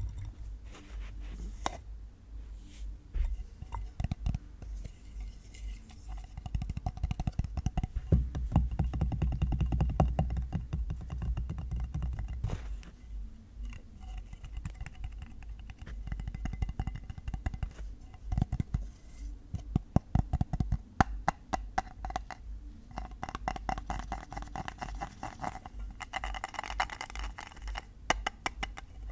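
Fingertips and nails tapping on assorted objects, in fast runs of many taps broken by slower, separate ones; some objects give a faint ringing tone under the taps.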